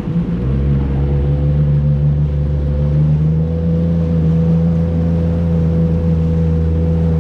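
Jet ski engine running at a steady speed: a low steady hum with a steady whine above it, picking up slightly about half a second in.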